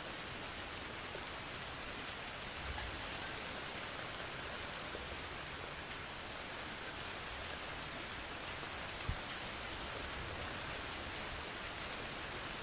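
Steady rain falling in an even hiss, with one short low thump about nine seconds in.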